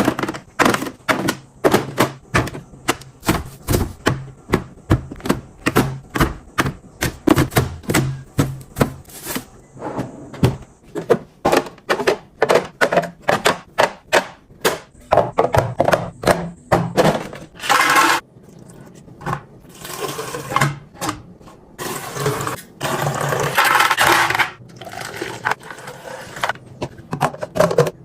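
Food containers and packages being handled and set down while a refrigerator is stocked: a quick run of clicks and knocks, about two to three a second. In the second half there are several longer stretches of rustling or hissing.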